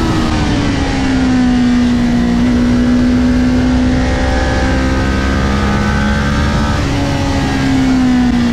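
Kawasaki Ninja 400's parallel-twin engine running hard at race speed, heard from the bike itself, with wind rush. The engine note eases down about a second in, holds steady through the corner, then lifts briefly near the end and falls again.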